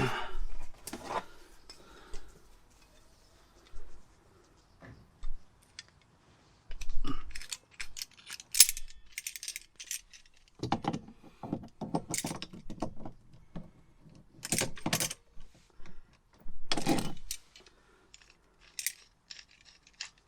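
Small metal parts clinking and jangling as they are handled, in scattered clicks with short rattling clusters.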